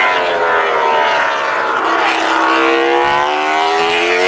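Racing motorcycle engines at high revs. Their pitch falls over the first couple of seconds, then climbs steadily again as they rev up.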